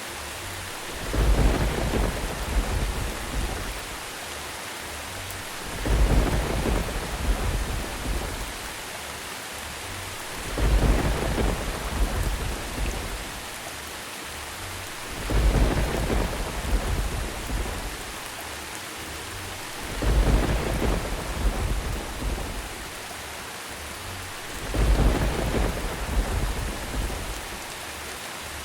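Steady rain with a rumble of thunder about every five seconds, six rumbles in all, evenly spaced.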